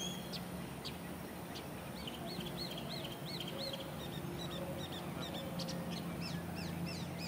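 Birds calling: a busy run of short, arching chirps, several a second, over a faint steady low hum.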